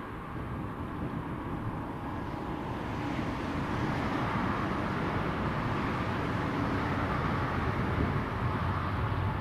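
A vehicle's steady rushing noise, swelling about three seconds in and then holding.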